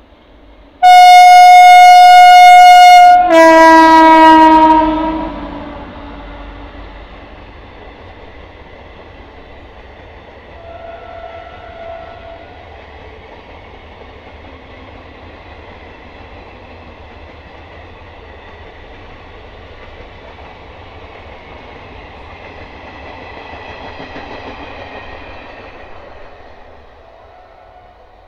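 Indian Railways WAP-7 electric locomotive sounding its horn: one long, loud, high blast, then a lower blast that drops in pitch as the engine passes. After that comes the steady rumble and clatter of the express coaches rolling past on the rails, fading near the end.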